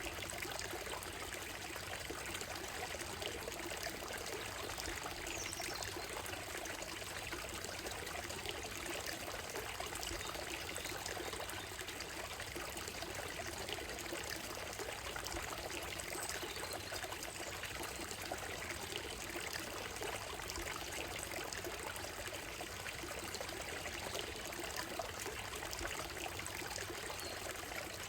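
Shallow stream running steadily over stones and a gravel bed, a continuous trickling rush. A few faint bird calls come through now and then.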